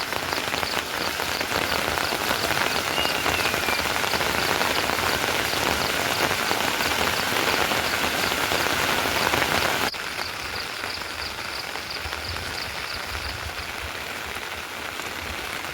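Heavy rain falling steadily, with an insect chirping in a fast, even rhythm above it. About ten seconds in, the rain sound drops abruptly to a lighter, quieter fall.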